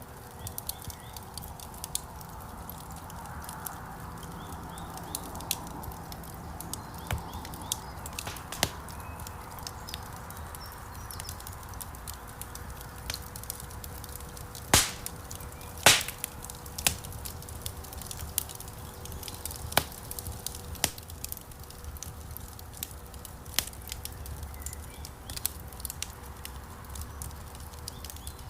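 Wood fire crackling in a fireplace: irregular sharp pops and snaps over a low, steady rumble of flames, with two louder snaps about halfway through.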